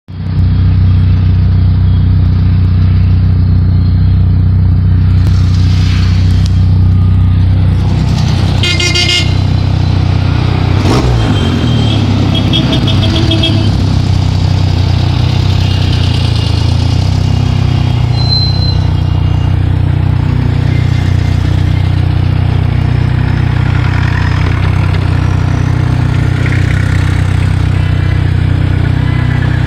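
A vintage car's engine running steadily, heard from inside the cabin, with car horns tooting a few times about a third of the way in.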